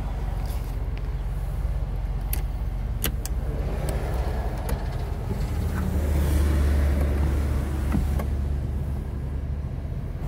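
2012 Mazda 3's four-cylinder engine idling, heard from inside the cabin, with a few small clicks. A louder low hum swells for a few seconds in the middle.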